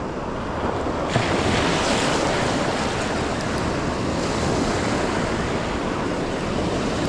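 Ocean surf breaking and washing up the beach, with wind buffeting the microphone. A wave's wash swells up about a second in and holds for a few seconds.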